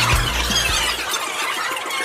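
High-pitched squealing voices, with background music whose bass cuts off about a second in.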